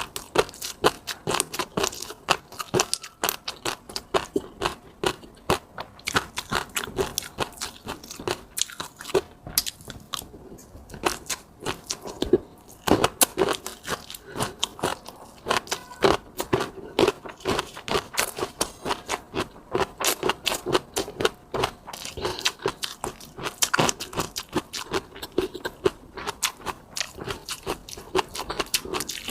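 Close-miked eating: a person chewing and biting, with rapid sharp clicks and crunchy pops several times a second, pausing briefly twice.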